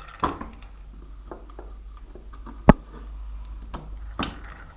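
Small metallic clicks and taps of loose steel steering-head ball bearings being picked off the fork and handled, with one sharp, loud click a little over halfway through.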